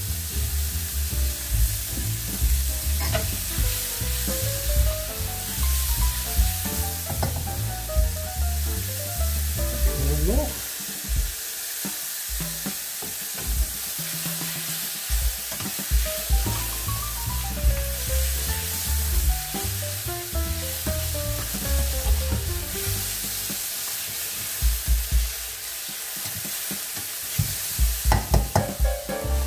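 Diced venison and onions sizzling in a hot stainless steel pot while a flat spatula stirs and scrapes them, with irregular knocks of the spatula against the pot and a quick run of knocks near the end.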